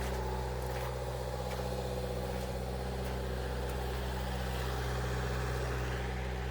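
Engine idling steadily, a constant low hum, with a few faint clicks in the first couple of seconds.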